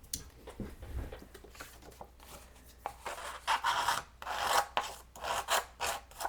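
A paper-distressing tool scraping along the edge of a paper strip. After a few faint handling clicks, rasping strokes start about three seconds in and repeat about three times a second.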